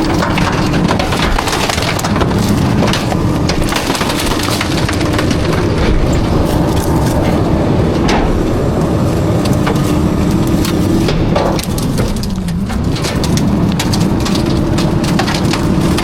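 Garbage truck running with a steady hydraulic or engine tone, under a dense crackling and crunching as refuse is compacted; the tone sags and recovers briefly near the end.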